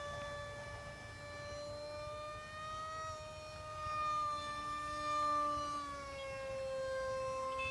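Homemade model airplane's motor whining steadily at high pitch while in flight; the pitch wanders slightly and drops a little about six seconds in.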